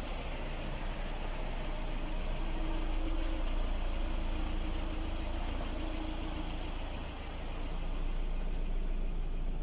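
Lada Kalina engine idling steadily at full operating temperature. No clear whistle stands out: the owner thinks the timing-belt whistle has stopped since he sprayed silicone lubricant on the belt and roller.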